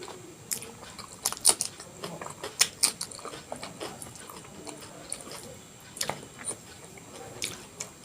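A person eating close to the microphone: chewing a soft meal of vegetable khichdi and omelette, with sharp wet smacks and clicks that come in small clusters.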